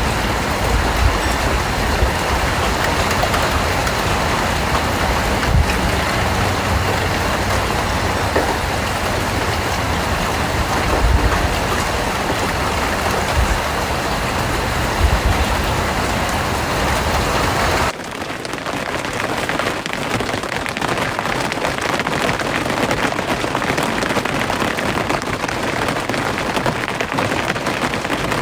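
Steady, heavy rain falling, with occasional deep thuds under the patter. About two-thirds of the way through it cuts suddenly to a different rain recording with less low rumble.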